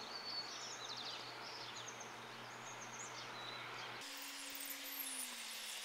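Faint outdoor ambience with small birds chirping and twittering. About four seconds in, a faint low hum comes in and slowly falls in pitch, with high thin bird whistles above it.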